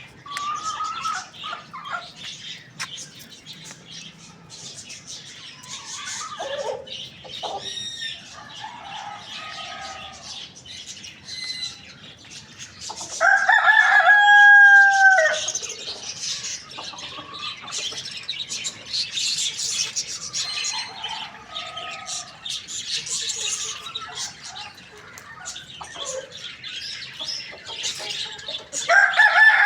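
Rooster crowing loudly once about halfway through, a long held call that falls at the end, with another crow starting near the end. Hens cluck in between, over constant high-pitched chirping.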